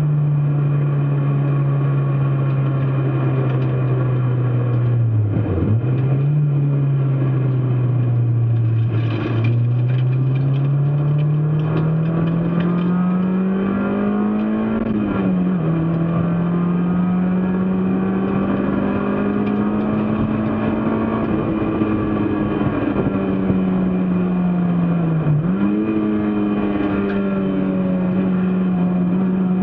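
Racing car engine running hard under load, its pitch climbing slowly and then dropping sharply at a gear change about fifteen seconds in, with brief dips around five and twenty-five seconds in. Other cars' engines are faintly heard rising and falling in the middle.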